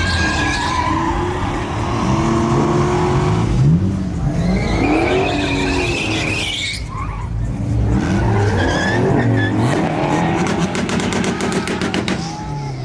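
Pickup truck doing a burnout: the engine revs up and down again and again while the tires squeal against the pavement.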